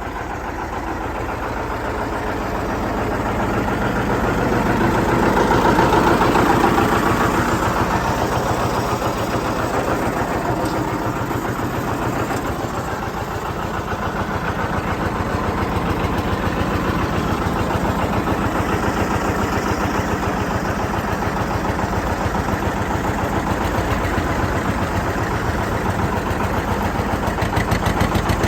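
John Deere 730 tractor's two-cylinder engine running with an even firing beat. It gets louder over the first several seconds as it picks up, then holds steady.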